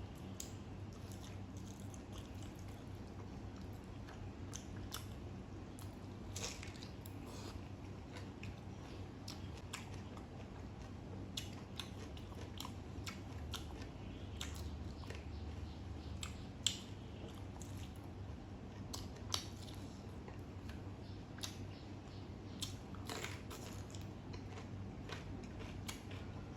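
A person chewing and biting food, with irregular small crunches and clicks, the sharpest about a third and two thirds of the way through.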